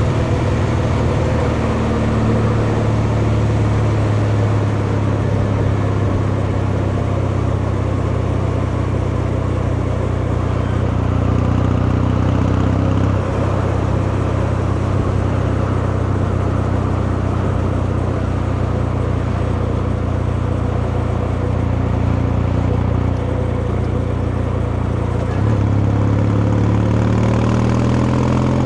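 Kawasaki Meguro K3's 773 cc air-cooled vertical-twin engine and exhaust under way: steady running whose pitch climbs slowly and then drops about halfway through, holds level, and rises again with climbing revs in the last few seconds.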